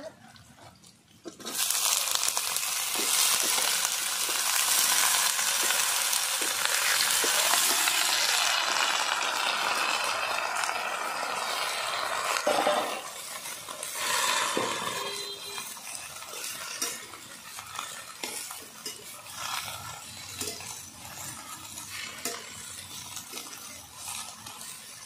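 Freshly washed spinach leaves dropped into hot oil in a kadai: a loud sizzle starts about a second and a half in and stays strong for about ten seconds, then dies down to a softer frying hiss while a metal spatula scrapes and turns the leaves against the pan.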